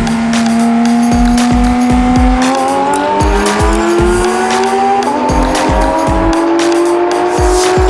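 Sports car engine accelerating hard, its pitch climbing steadily, under electronic dance music with a steady beat of about two hits a second.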